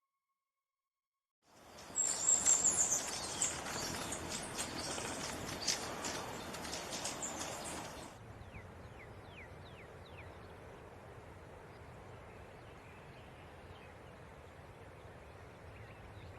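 Outdoor background noise with bird chirps. After a second and a half of silence, a louder hissy stretch with high chirping runs to about halfway through, then drops to a quieter steady background with a few short falling chirps.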